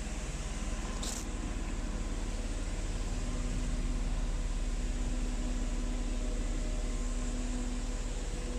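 Steady hum and rush of running machinery, like a motor-driven fan, with a short high click about a second in.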